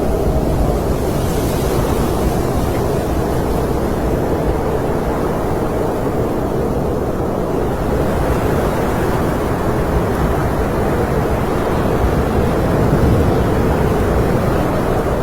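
Snowstorm wind blowing steadily: a dense, low rushing noise that swells slightly near the end.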